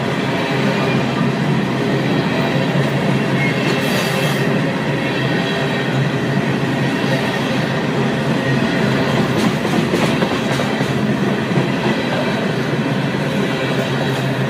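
A long train's cars rolling steadily past on the track: a continuous loud rumble, with a few sharper clicks about ten seconds in.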